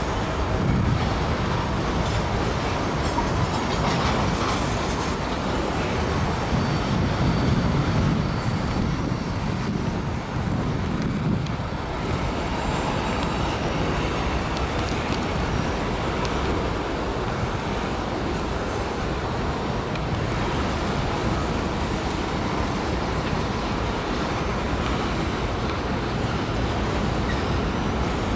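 Freight cars, mostly tank cars, rolling steadily over a steel girder trestle: a continuous rumble of wheels on rail and bridge steel.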